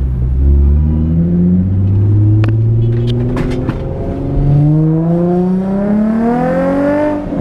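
Infiniti G37's 3.7-litre V6 engine accelerating: it runs at low, steady revs at first, then climbs steadily in pitch for about three seconds and drops sharply near the end at a gear change. A few sharp clicks are heard around the middle.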